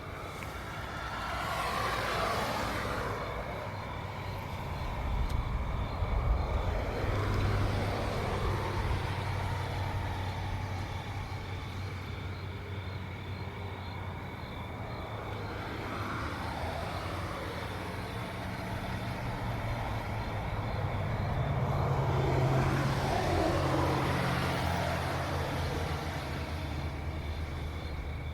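Road traffic: vehicles passing one after another, about four pass-bys, each swelling and then dropping in pitch as it goes by, over a steady low engine hum.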